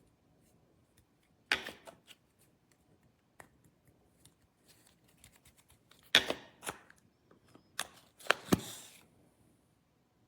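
A few sharp clicks and knocks of hard objects being handled, the loudest about a second and a half in, around six seconds in, and a cluster near eight and a half seconds.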